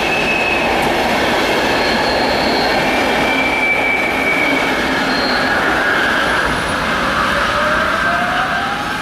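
An electric train passing close by: a steady rolling roar of wheels on rails with high squeals from the wheels. Near the end a whine rises in pitch and then holds, and the rolling noise begins to fade.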